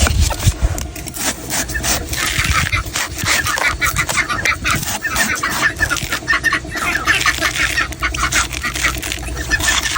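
Knife working on a coconut: rapid, repeated scraping and chopping strokes.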